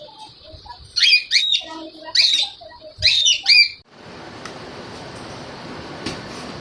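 Pet parrots calling: three bursts of loud, high-pitched calls over about three seconds, with softer chirping underneath. About four seconds in the calls stop and a steady hiss takes over.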